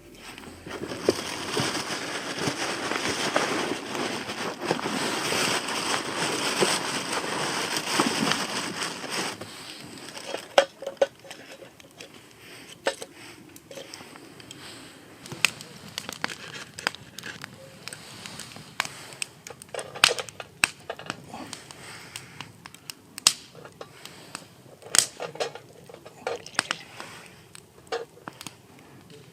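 Wood fire crackling, with scattered sharp pops and snaps. For about the first nine seconds a steady rushing noise covers it.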